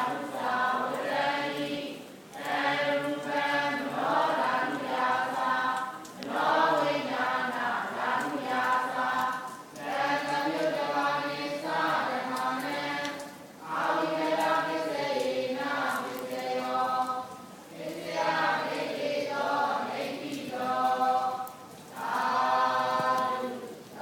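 A group of voices chanting together, most likely Buddhist devotional chanting. It goes in phrases of three to four seconds, with short pauses for breath between them.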